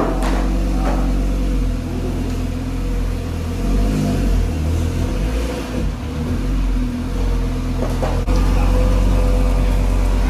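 Audi RS3's turbocharged 2.5-litre five-cylinder engine, fitted with a TTE700 turbo and a Unitronic tune, running steadily in gear on a chassis dyno with the wheels turning the rollers. About eight seconds in, the note jumps abruptly to a louder, steadier level.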